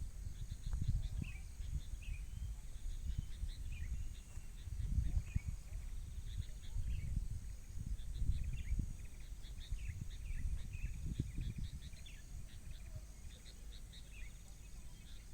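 Wind buffeting the microphone in gusts, with birds chirping repeatedly and a steady high insect buzz underneath.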